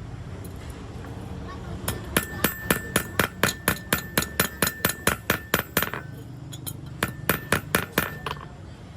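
Hammer striking metal in quick, even blows, about four a second, each with a short metallic ring. A run of about sixteen blows is followed by a pause of about a second, then about six more.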